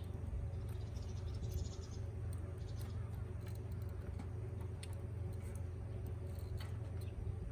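Wood campfire crackling, with scattered small pops and ticks over a steady low hum.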